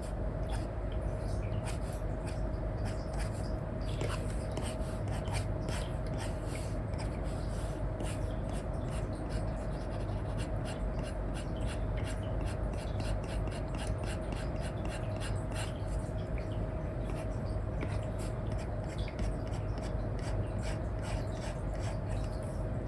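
Apple Pencil 2 with an Elecom nib scratching and stroking across an iPad's paper-like screen protector: many quick, repeated pen strokes over a steady faint hum.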